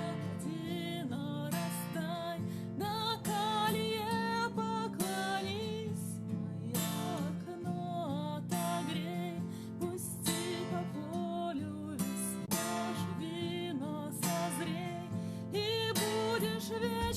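A woman singing in a high register with vibrato, accompanied by a strummed acoustic guitar.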